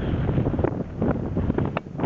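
Blizzard wind buffeting the microphone in strong gusts, a heavy low rumble with irregular swells.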